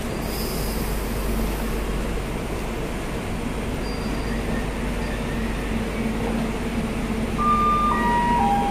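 Passenger train coaches rolling slowly along a platform, giving a steady rumble and hum. Near the end a three-note chime steps down in pitch, the kind of public-address chime that opens a station announcement.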